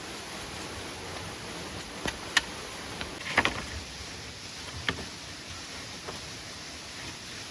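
Steady hiss of rain, with a handful of sharp knocks and clicks about two to five seconds in.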